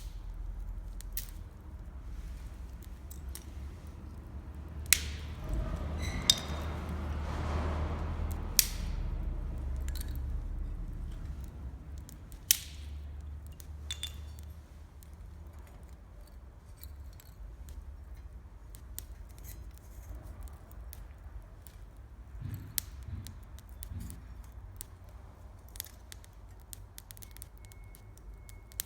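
Wood campfire crackling, with scattered sharp pops and snaps of burning firewood over a low rumble, and a swell of rushing noise that rises and fades about a quarter of the way in.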